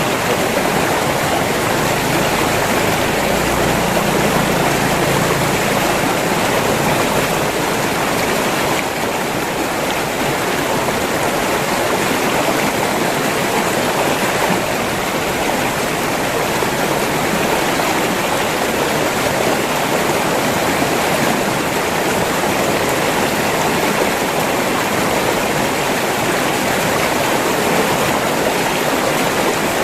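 River water rushing and splashing over rocks in a steady, unbroken stream.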